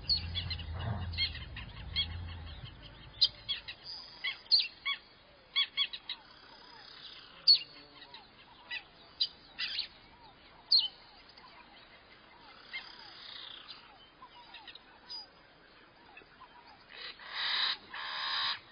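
Small birds chirping, with many short, sharp calls scattered irregularly, and a louder burst of rustling noise near the end.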